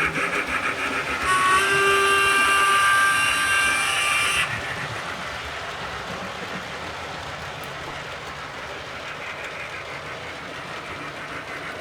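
Soundtraxx Econami UK Steam sound decoder in a Hornby OO-gauge BR 9F model locomotive, heard through its small speaker. Rhythmic exhaust chuffs are followed, about a second in, by a steam whistle sounding a chord of several notes for about three seconds. After that comes the quieter steady hiss and rumble of the running loco sound.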